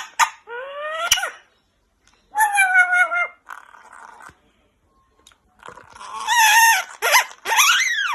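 Pet parrot calling four times: a short rising call about a second in, another a couple of seconds later, then two longer warbling calls near the end.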